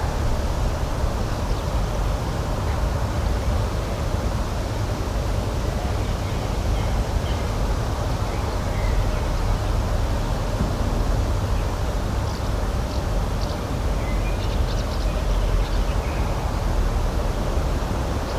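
Steady outdoor nature ambience, a constant low rushing noise, with a few faint bird chirps, most of them in the last third.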